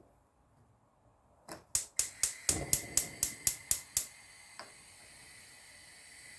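Gas hob igniter clicking rapidly, about ten clicks in two and a half seconds, with one more click a little later, then a steady faint hiss as the burner runs.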